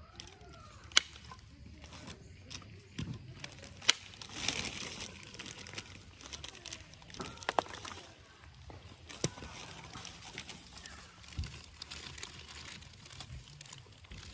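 Pressure flaking of Onondaga chert with an Ishi stick: sharp clicks as flakes snap off the point's tip, about four of them, with quiet scraping and crackling of stone between.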